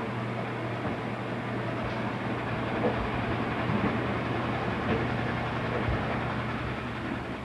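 A machine running steadily: an even rumble with a constant low hum and a few faint knocks.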